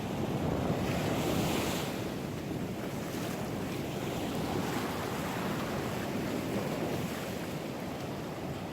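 Ocean surf breaking and washing on the shore, with wind buffeting the microphone; a wave surges louder in the first couple of seconds, then the wash settles to a steady rush.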